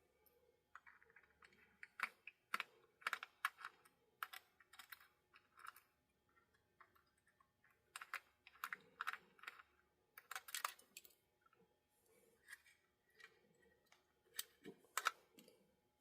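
Faint, irregular clicks and small scrapes of a screwdriver and fingers working at a screw in a model locomotive's frame.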